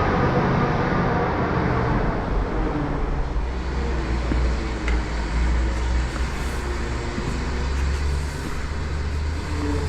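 A vehicle engine running steadily at low speed, a low, even drone.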